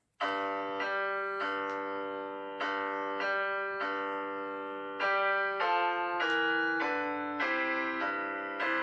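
Keyboard music: a series of sustained piano-like chords, starting suddenly after a silence and changing roughly every half-second to second.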